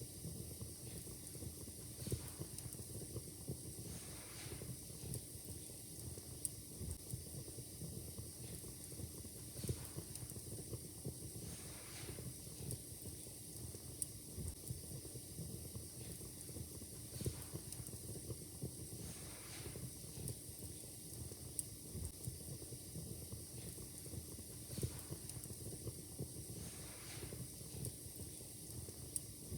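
Wood fire crackling steadily, with irregular sharp pops and snaps over a soft hiss and rumble; a few pops stand out louder.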